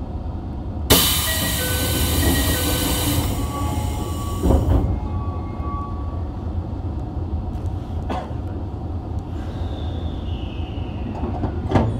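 Toei Asakusa Line 5300-series train standing at a platform, heard from inside the car over its steady low hum. A loud hiss of released compressed air starts suddenly about a second in and lasts about four seconds, with a thump near its end and a few short tones over the hiss.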